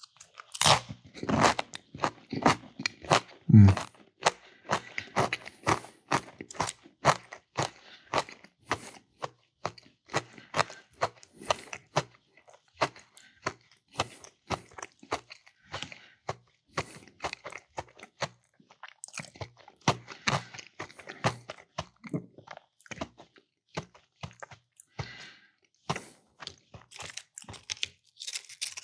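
A person chewing crunchy food: rapid crisp crunches all through, loudest in the first few seconds.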